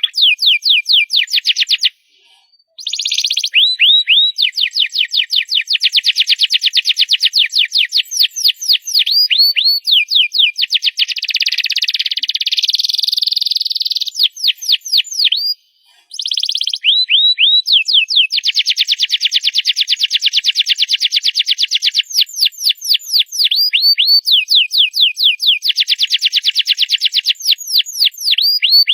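Domestic canary singing loudly: long phrases of rapid repeated down-slurred notes and fast trills, broken by two short pauses, about two seconds in and just past halfway.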